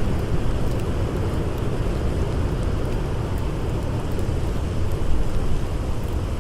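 Blizzard wind blowing in a steady, dense low rumble, with faint scattered crackles of a campfire.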